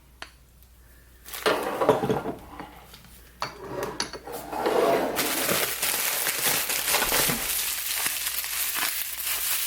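Glass candle jars knocking and clinking as they are handled, then, from about halfway through, a steady crinkling of packaging being unwrapped.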